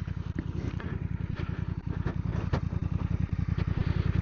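Motorcycle engine running with a rapid, even pulse that grows gradually louder.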